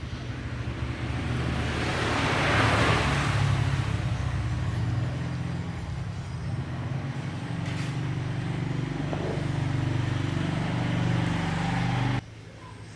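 A machine running with a steady low hum, with a rush of hiss that swells and fades about two to three seconds in. The hum cuts off suddenly near the end.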